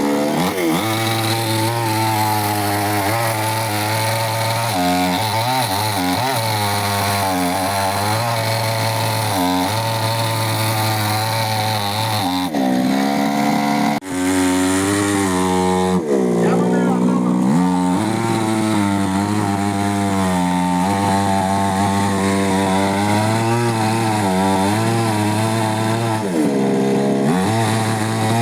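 Chainsaw engine running hard at high revs, its pitch dipping and recovering several times as it cuts into a tree.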